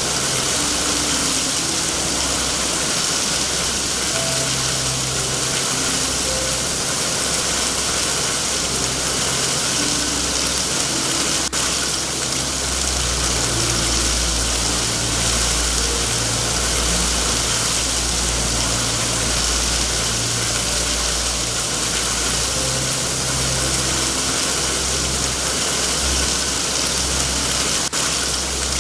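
Steady rain hiss, with a low rumble swelling and fading underneath, loudest around the middle.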